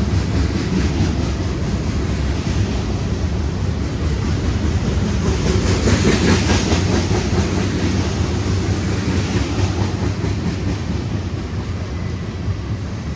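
Union Pacific manifest freight train rolling past: a steady rumble of steel wheels on rail, loudest about halfway through.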